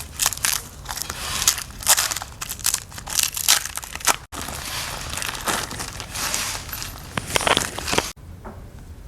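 Irregular crinkling and scraping noises of hands-on work, in quick uneven strokes. The sound cuts off abruptly twice; after the second cut it is much fainter.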